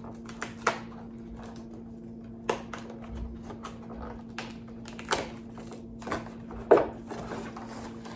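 Irregular clicks, taps and light rustling from a cardboard advent calendar box being opened and handled, over a steady low hum.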